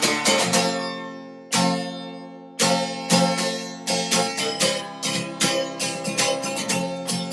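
Acoustic guitar strummed: a few quick strums, then two single chords left to ring out and fade, the second struck about one and a half seconds in, before fast, even strumming picks up again about two and a half seconds in.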